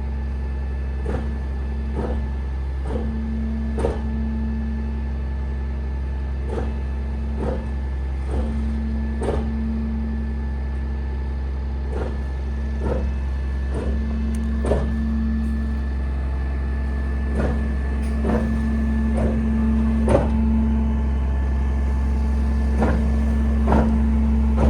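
A walking-floor trailer unloading: the truck's engine runs steadily with a thin high whine, while a knock sounds about once a second.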